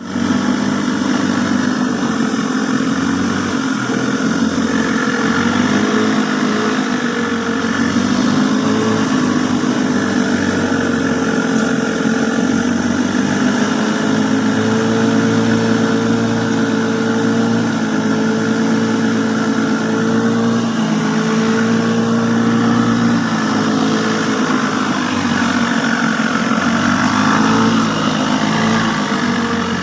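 A motor engine running steadily at a constant load, its pitch wavering slightly up and down.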